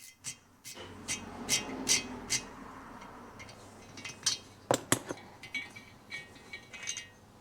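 Hand tap and tap wrench clinking and clicking while a bottom tap is run through a threaded head-stud hole in a motorcycle cylinder. Sharp metallic clicks come irregularly, some with a short ring, and a cluster of louder ones falls just before the middle.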